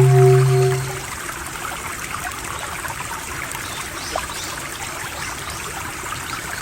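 Water trickling and burbling like a small stream, steady and even. A low humming drone with a pulsing overtone fades out about a second in and comes back abruptly at the very end.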